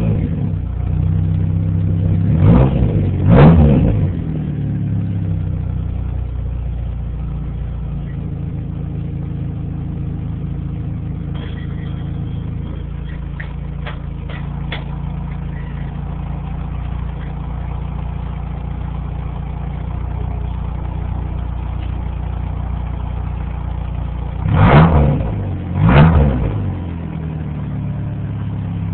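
1991 Chevy Cavalier's engine running through its exhaust during a muffler comparison, idling steadily and revved in two quick blips shortly after the start and two more near the end.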